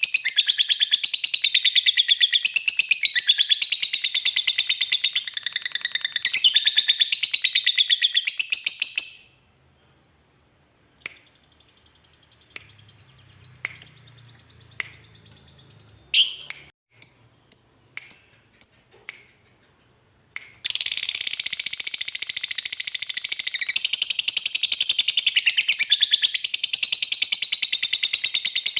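Lovebird's long, very rapid chattering trill ('ngekek'), high-pitched, running for about nine seconds. It breaks off into a pause of about eleven seconds broken only by a few short chirps, then the trill starts again and carries on.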